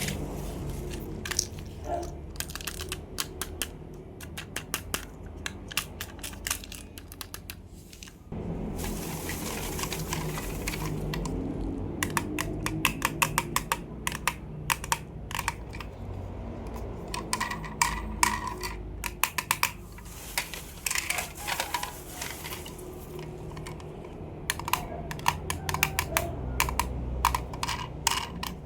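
Rapid runs of small clicks and taps from plastic toy cars and their packaging being handled and tapped, with a brief pause about eight seconds in, over a low steady hum.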